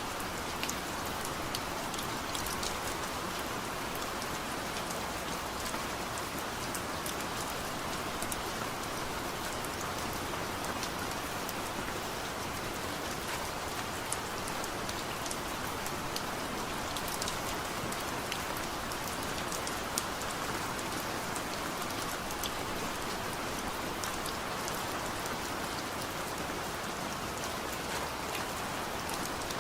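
Heavy rain falling steadily, an even hiss with many individual drops ticking sharply on a surface, and no thunder.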